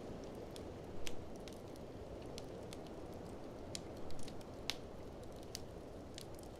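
Wood fire in a fireplace crackling, with irregular sharp pops, the loudest about a second in and around four to five seconds in, over a steady low rushing noise.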